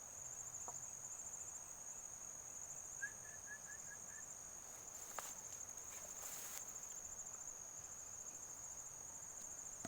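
Crickets trilling steadily at a high pitch. About three seconds in, an unseen animal gives a short run of five quick chirps, and a faint click and a brief hiss come later.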